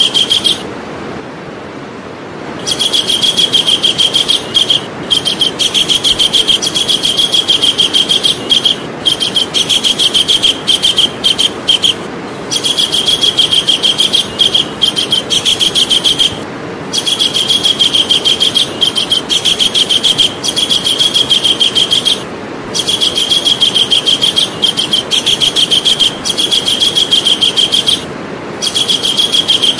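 Javan kingfisher calling: long chattering rattles of rapidly repeated high notes, in bouts of several seconds separated by brief pauses, over a steady background hiss.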